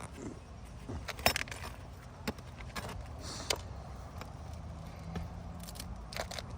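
Hand tools working on roof shingles, a few sharp separate clicks and knocks with a short scrape near the middle, as nails are worked loose from the brittle shingles.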